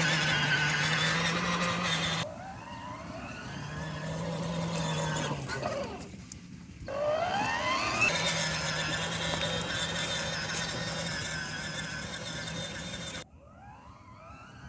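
An electric kids' ride-on motorbike playing a simulated engine sound effect, with a steady hum and revving tones that rise in pitch several times. The sound cuts off and restarts abruptly.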